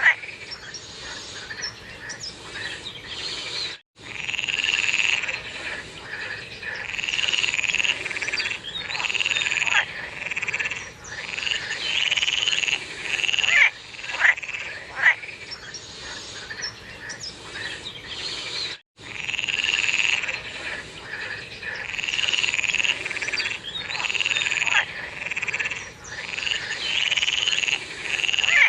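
A chorus of frogs calling, many overlapping croaking calls repeating steadily, with now and then a sharper, louder call. The sound cuts out completely for an instant twice, about 4 and 19 seconds in.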